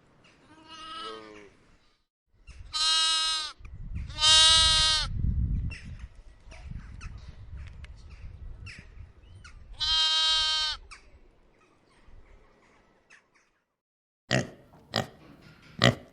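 Lamb bleating: four separate bleats, the first faint and wavering, the others loud and steady. Short sharp noises follow near the end.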